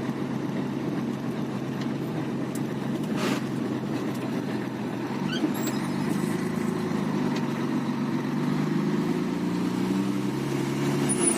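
Scania truck's diesel engine running as the truck drives, loaded with about 21 tonnes; its pitch shifts slightly in the last few seconds. Two short clicks about three and five and a half seconds in.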